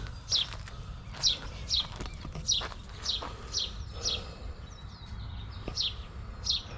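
A small bird chirping over and over: short, high chirps that fall in pitch, about two a second, with a pause of a second or so past the middle. A low steady rumble runs underneath.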